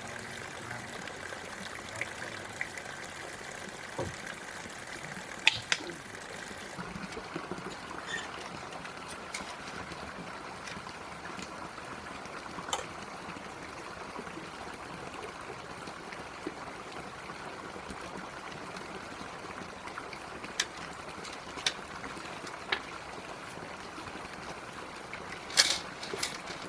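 A stream trickling and flowing steadily, with a few scattered sharp knocks, the loudest near the end.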